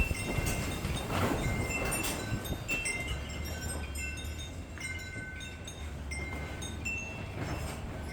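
Chimes ringing: short, clear tones at a few fixed pitches, sounding one after another in no regular rhythm. A couple of soft knocks come about a second in.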